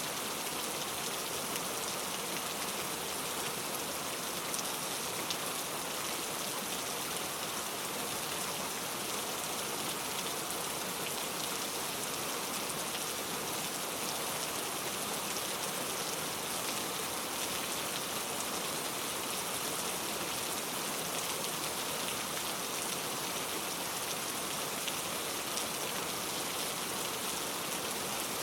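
Steady rain falling on a surface, an even hiss dotted with individual drop ticks, with no thunder.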